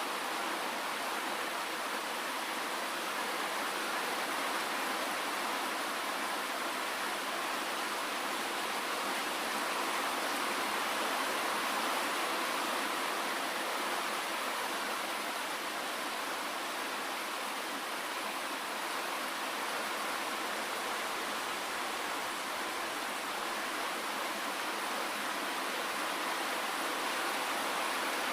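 Steady, dense rainfall: an even hiss of many drops with no single drop standing out and little low rumble.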